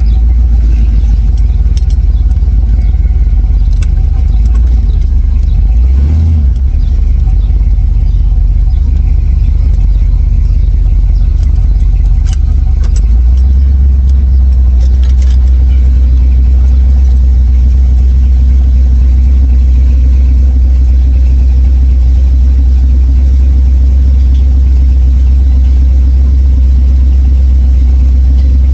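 Car engine running with a loud, low, continuous rumble. About halfway through it settles into a steadier, heavier drone, with a few faint clicks before that.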